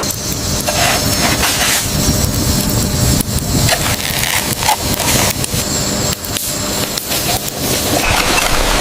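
Irregular run of sharp knocks and cracks, several a second, over a dense steady noise.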